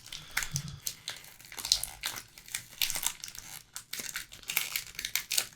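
Baseball card pack wrapper being torn open and crinkled by hand, a run of short, irregular crackles.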